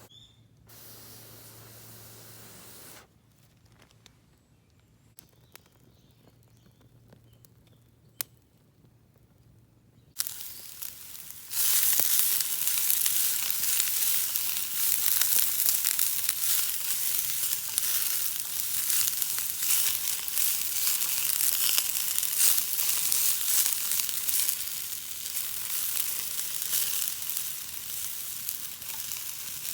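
Food sizzling in a pan over a campfire, a loud steady hiss with small crackles that starts about a third of the way in, after a quiet stretch with a few faint clicks.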